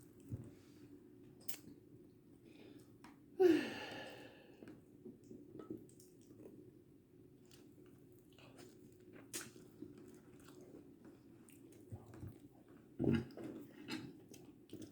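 Someone eating: faint chewing and mouth clicks, with a short louder vocal sound about three and a half seconds in and another near the end.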